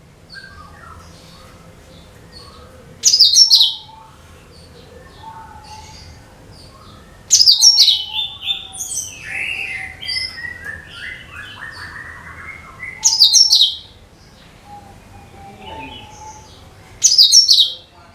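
Cucak kinoi song: loud, short bursts of high, quickly falling whistled notes repeated about every four to five seconds, with a longer warbled phrase sliding down in pitch in the middle and softer chirps in between. It is played as a lure recording to set other songbirds singing.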